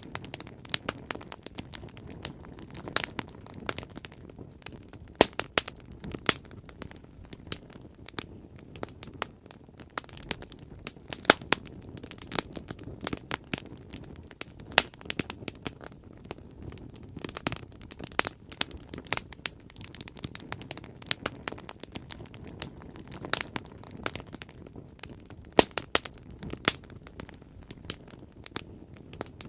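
Bonfire burning with steady crackling: many irregular sharp pops and snaps over a low rush of flame.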